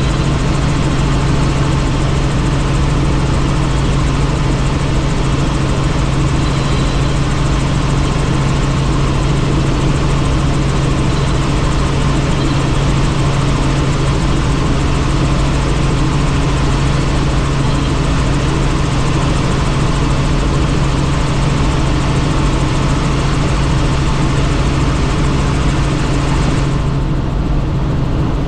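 Helicopter in flight heard from on board: a steady low drone of rotor and engine under a dense rushing hiss. Near the end the higher hiss suddenly dulls.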